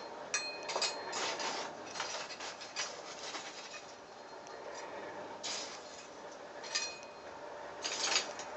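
Irregular clinks and scrapes of steel forge tools and lumps of coke being worked in a coal forge fire, a few with a brief metallic ring.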